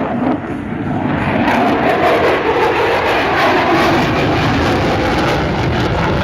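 Loud, steady jet roar of an F-35B's single Pratt & Whitney F135 engine as the fighter flies overhead, swelling about a second and a half in and holding.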